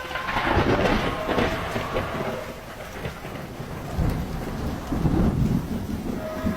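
Thunderstorm: steady heavy rain and wind noise with two loud rumbling surges of thunder, the first about a second in and the second around four to five seconds in.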